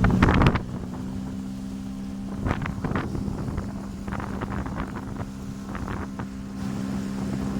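Motorboat engine running with a steady hum, with wind on the microphone; a loud burst in the first half second, then quieter, with scattered short rushes of wind or water noise.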